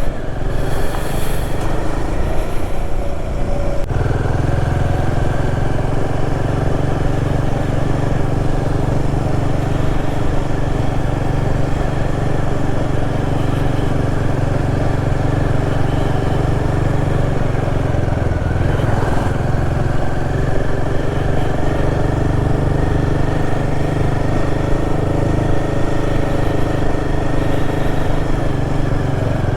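Royal Enfield Himalayan 450's single-cylinder engine pulling steadily under load, ridden uphill. The engine note steps up about four seconds in and briefly wavers a little past the middle.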